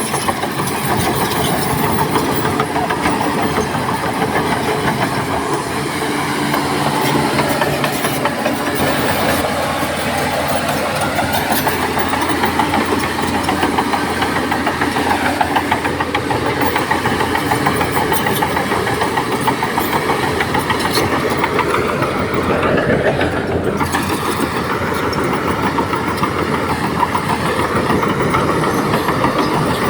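Heavy diesel earthmoving machinery running steadily under load, the engine note mixed with a dense mechanical clatter; the engine note shifts briefly about three-quarters of the way through.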